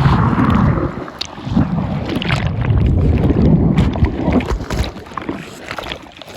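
Wind buffeting the microphone outdoors: a loud, uneven low rumble that swells and eases, with scattered crackles.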